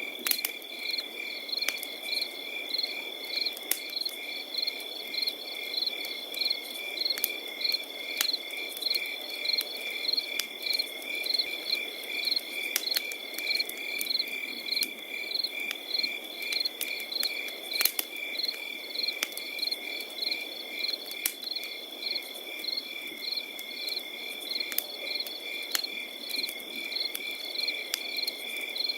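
Crickets chirping in an even, repeating rhythm over a steady high trill, with a campfire crackling and popping now and then.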